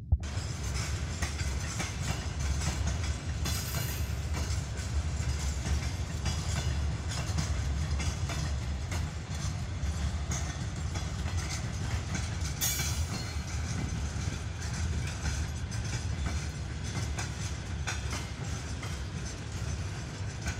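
Loaded freight train of open gondola wagons rolling past at a steady speed: a low rumble from the wheels, with a run of clicks as the wheelsets cross rail joints.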